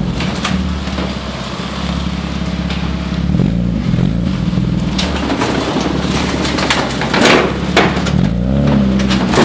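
BMW E36 320i's 2.0-litre M52B20 inline-six idling through a Supersport aftermarket muffler, with two short throttle blips where the pitch rises and falls back. A few brief rushing noises come between the two blips.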